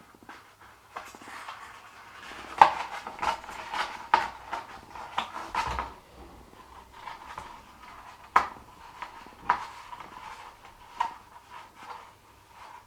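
Card kite and string being handled on a tabletop: irregular rustling of card with light clicks and knocks, the sharpest about two and a half seconds in and again past eight seconds.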